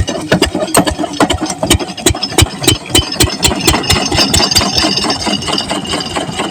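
Single-cylinder diesel engine of an irrigation water pump set running steadily, each firing stroke a distinct regular thud with a rattle.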